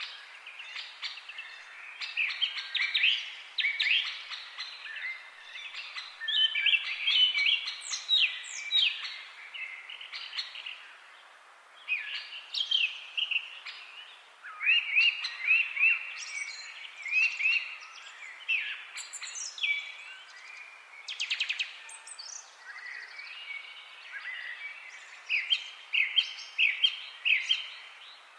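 Several songbirds chirping and singing together, with runs of short high notes overlapping throughout and a faint steady hiss beneath.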